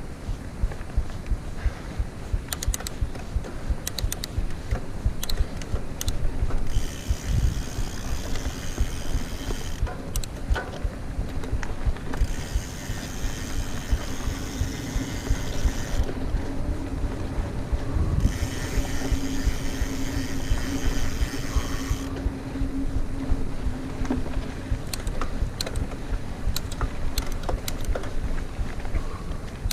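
Mountain bike rolling fast over a dirt trail: steady wind rumble on the microphone with frequent jolts from the ground. The rear hub's freewheel ratchet ticks and buzzes while the rider coasts, in three stretches of a few seconds each.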